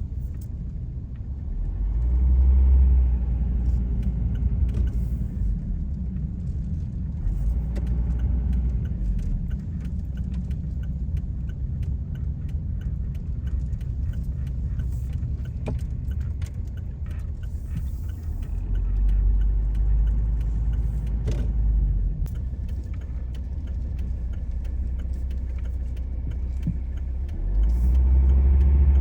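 Car driving on the road: a steady low rumble of tyre and engine noise that swells louder several times.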